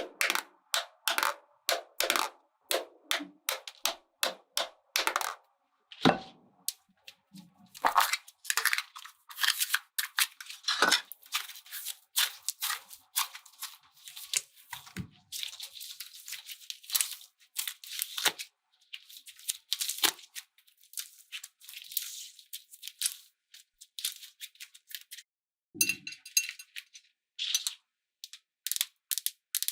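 Small hard objects clicking, clinking and rattling as they are handled, in quick irregular taps, with a stretch of crinkling in the middle.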